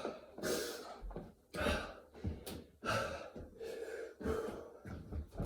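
A person breathing hard and gasping from exertion during burpees, with about four loud breaths, roughly one a second.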